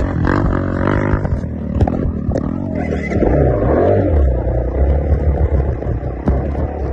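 Motor vehicle engine running with a deep steady drone, revving up about three seconds in, with a few sharp knocks.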